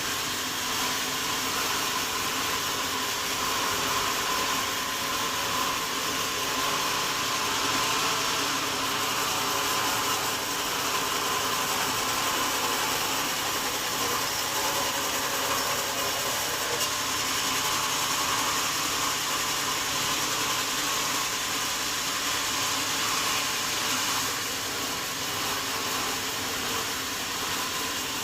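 Sawmill saw running steadily, a constant high whine over a rushing noise with no breaks.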